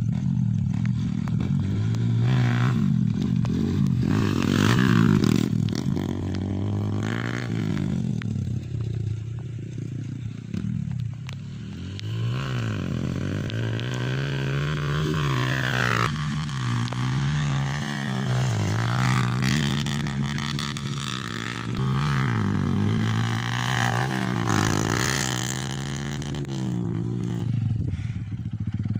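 Motocross dirt bikes racing, their engines revving up and dropping back again and again as riders work the throttle and shift gears, several bikes heard together.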